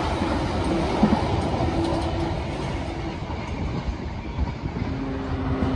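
Flat wagons of an engineering freight train rolling past on the rails, with a few clicks of wheels over rail joints. The sound fades after about three seconds as the last wagon goes by.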